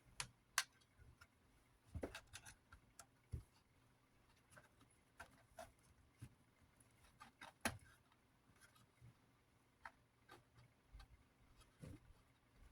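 Faint, scattered clicks and taps of small box-fan parts being handled during servicing, with a few louder knocks now and then.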